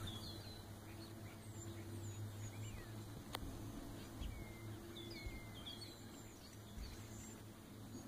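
Small birds chirping, with short high calls that slide up and down in pitch, coming in a few clusters over a faint, steady low hum.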